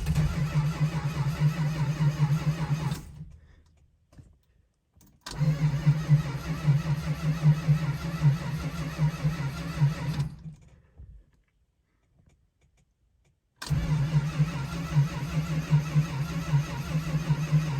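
Starter cranking the 1971 Dodge Charger R/T's 440 big-block V8 in three long bursts with pauses between, the engine turning over without catching. The engine is loaded up with fuel after months of sitting.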